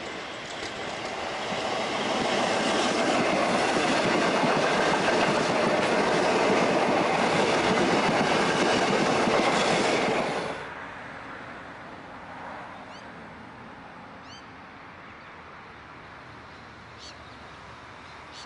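Hitachi stainless-steel electric suburban train running past, a steady rush of wheels on rails with clickety-clack that builds over the first couple of seconds. The sound cuts off suddenly about ten seconds in, leaving a quiet steady background with a couple of faint high chirps.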